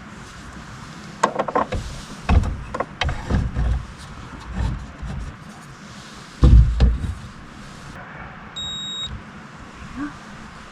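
Irregular knocks and thuds of things being handled, with the heaviest low thud about six and a half seconds in, and a short electronic beep near the end.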